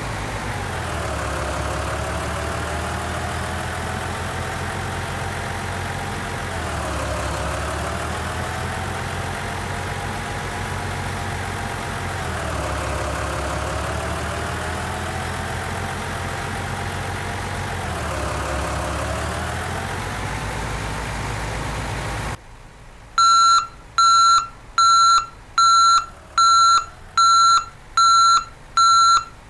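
A vehicle engine runs steadily, its pitch dipping and rising again about every six seconds. About 22 seconds in it cuts off abruptly, and a loud, high electronic beep takes over, sounding about once a second like a reversing alarm.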